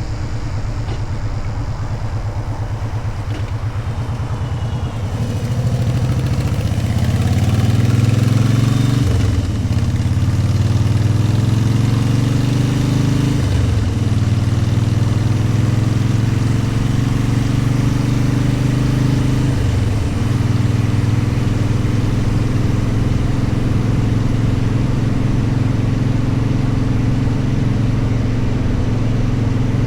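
Motorcycle engine running low and even, then pulling away about five seconds in, its pitch rising through three upshifts with short breaks between gears before settling to a steady cruise.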